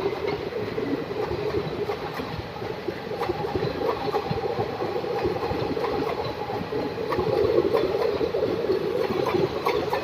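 Indian Railways express train's coaches rolling along the track as it pulls out of the station: a steady rumble with scattered short clicks.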